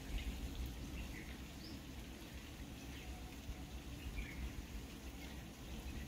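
Faint purple sunbird calls: a few short, high chirps scattered through, over a steady low rumble.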